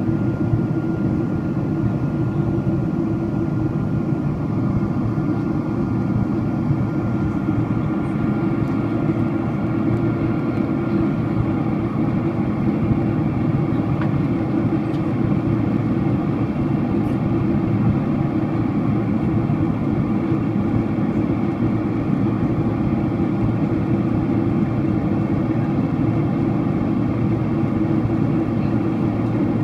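Steady airliner cabin noise from a Boeing 767-400ER in flight: an even low rush of engines and airflow, with a faint thin whine that fades out partway through.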